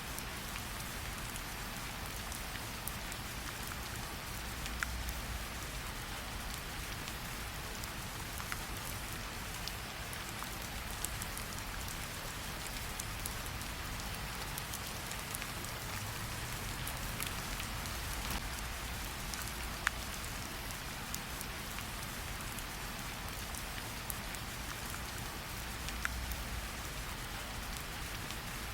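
Steady rain falling with a campfire crackling, a few sharp pops standing out here and there.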